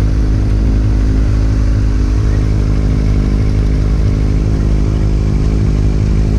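Motorcycle engine running at a steady pitch, with no change in revs.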